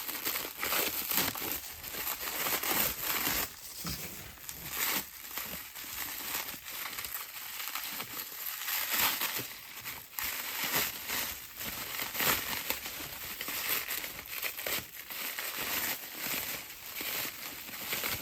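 Wrapping being crumpled and rustled as crystal specimens are unwrapped by hand: continuous, irregular crinkling and crackling with many small sharp rustles.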